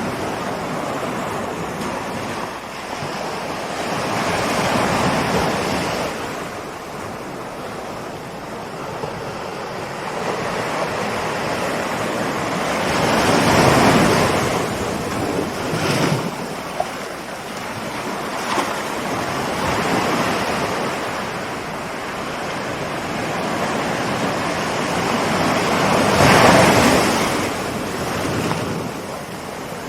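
Ocean surf: waves rolling in and breaking, the wash swelling and falling in slow surges, with the biggest breaks about 14 seconds in and again near the end.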